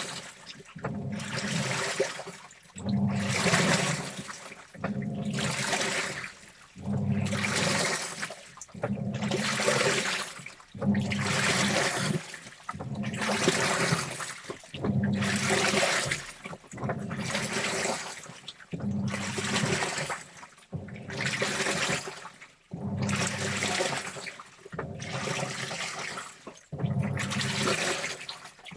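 Washing machine in its wash cycle: the motor churns the load through the water in regular strokes, about one every two seconds. Each stroke is a swishing slosh over a low motor hum, with short pauses between.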